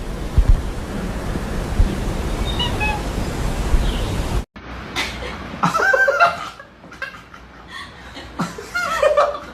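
A steady noise with a few low thumps. After an abrupt cut, people are laughing and chuckling.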